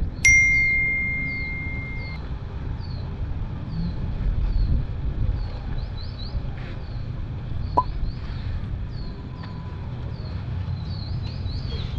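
A single bright ringing tone right at the start, fading away over about two seconds. Then a small bird chirping repeatedly, about twice a second, over a steady low rumble.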